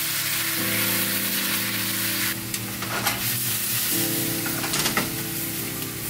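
Komatsuna and pork sizzling in a hot frying pan on high heat as they are stir-fried with chopsticks, with a few sharp clicks of the chopsticks against the pan. The steady sizzle is the moisture being cooked off.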